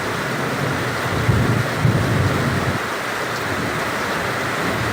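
Heavy rain pouring steadily, with a low rumble of distant thunder swelling from about a second in and fading before the end.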